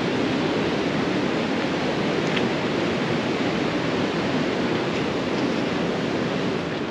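Mountain waterfall on a creek, water rushing in a steady, dense wash of noise.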